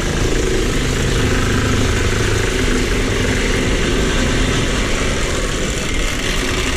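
Steady, loud mechanical running noise from a machine or tool in the shop, even in level throughout.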